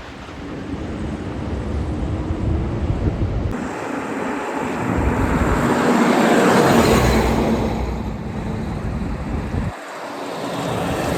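Road vehicle driving past on a street, its engine and tyre noise swelling to a peak about six or seven seconds in and then fading. There is some wind on the microphone.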